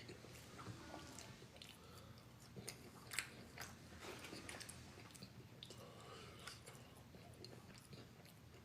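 Faint chewing and wet mouth clicks from someone eating Wingstop boneless chicken wings, with a sharper click about three seconds in.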